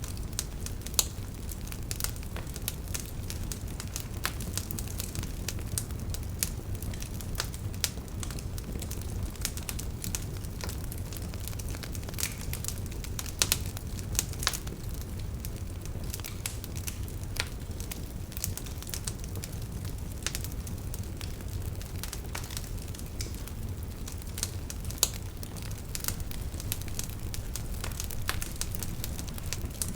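Wood fire burning in a fireplace: a steady low rumble of flames with irregular crackles and snaps, some sharper pops now and then.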